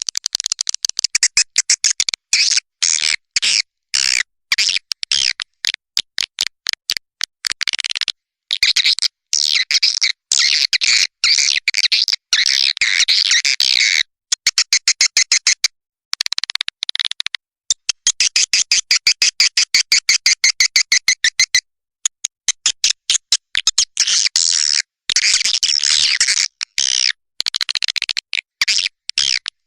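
Recorded swiftlet call used as a lure for swiftlet houses: fast trains of high, shrill twittering chirps in runs of one to several seconds, broken by short gaps of dead silence.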